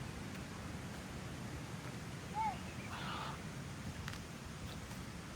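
Steady rush of a waterfall's flowing water, with a single short chirp about halfway through and a brief rustle just after it.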